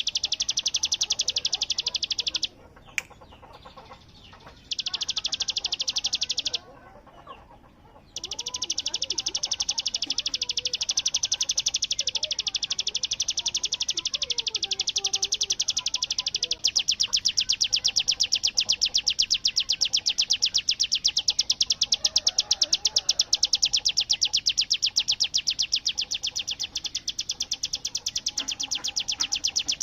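Ciblek gunung (a prinia) singing its machine-gun 'bren' song: a long, very rapid, evenly spaced rattle of high chips. It breaks off twice in the first several seconds, then runs on unbroken and a little louder from about halfway.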